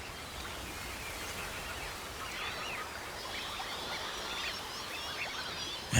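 A flock of birds calling, many short overlapping chirps and whistles, thickest from about two seconds in, over a steady background hiss.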